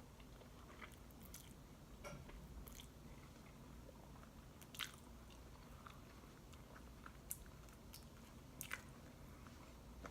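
Faint mouth sounds of a person chewing spaghetti and butter bread: scattered soft clicks and smacks, the loudest about five seconds in and twice more near the end.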